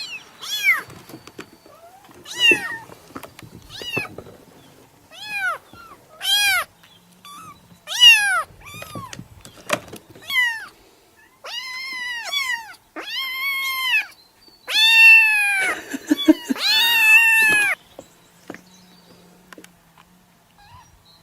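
A cat meowing again and again: first a run of short meows, each arching up and down in pitch, about one a second, then longer, drawn-out meows, the two near the end the loudest. The meowing stops about three seconds before the end.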